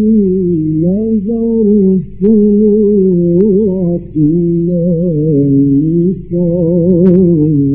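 A male reciter's voice in melodic mujawwad Quran recitation, holding long ornamented notes that waver and turn in pitch. The phrase breaks off briefly about two, four and six seconds in, with a few faint clicks over the voice.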